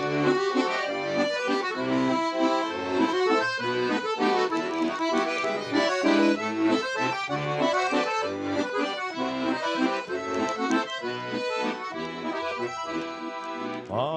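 Russian garmon playing an instrumental interlude of a folk song: a lively melody with chords over a rhythmic bass.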